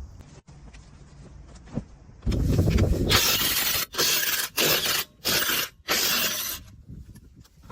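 Pneumatic impact wrench driving a wheel's lug nuts in a series of bursts: one long burst about two seconds in, then four short ones in quick succession.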